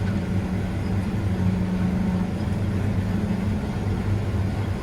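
Combine harvester running, a steady low drone.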